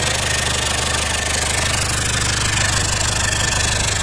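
Chevrolet Tavera engine idling steadily.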